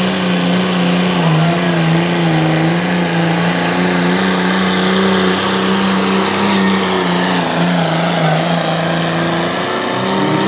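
Turbocharged diesel pulling tractor running at high RPM under full load as it drags the weight-transfer sled. The engine note sags and recovers several times.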